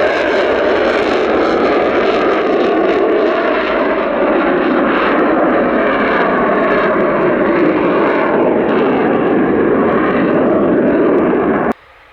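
Eurofighter Typhoon's twin jet engines running at high power as it takes off, a loud, steady rushing roar that cuts off abruptly near the end.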